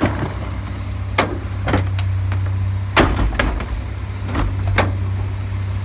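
Garbage truck engine running steadily at idle, with a series of sharp knocks and bangs over it, the loudest about three seconds in.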